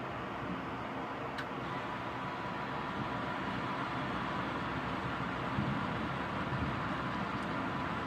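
Rain falling steadily during a thunderstorm, an even hiss that grows slightly louder, with a few faint clicks.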